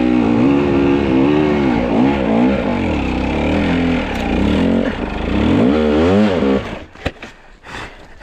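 Fuel-injected two-stroke enduro dirt bike engine revved hard over and over, its pitch rising and falling as the rider fights for traction on a steep climb. About seven seconds in the engine stops, followed by a few knocks.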